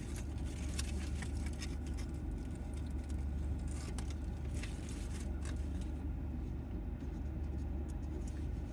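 Small clicks and crackles of eating and handling a bacon, egg and cheese biscuit sandwich, over a steady low hum.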